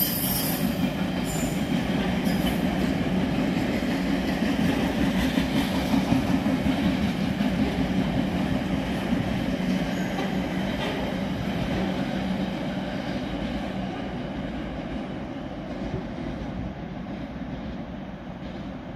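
Freight train of container wagons rumbling past, with a brief high wheel squeal at the start; the noise slowly fades toward the end as the last wagons draw away.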